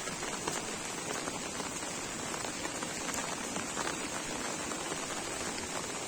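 Heavy rain falling steadily, a dense hiss with many small drop impacts.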